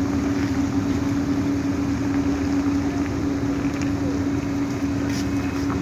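A large diesel engine running steadily at a constant speed, with an even hum and low rumble.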